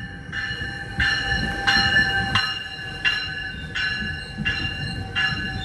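GO Transit bilevel commuter train pulling into a station platform: the rumble of the coaches rolling past, with a ringing that strikes about three times every two seconds.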